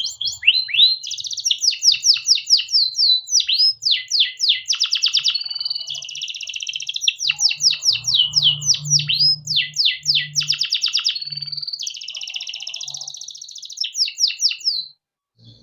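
Domestic canary singing a long, unbroken song of fast, repeated down-slurred notes and buzzing rolled trills, stopping near the end.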